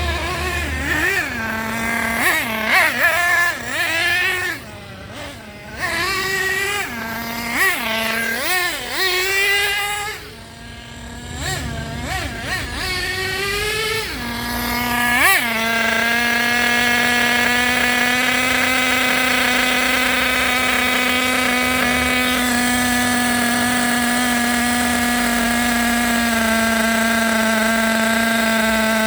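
Small nitro race engine of an RC car, a Hyper with a slide carburettor, revving up and down in quick throttle blips with a couple of brief drops. From about halfway it holds a steady high-pitched whine at constant revs.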